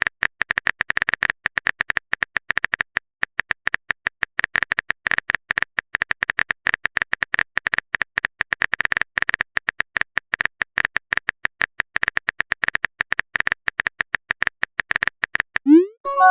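Phone keyboard typing sound effect: a rapid, irregular stream of short taps, many per second, as a text message is typed out.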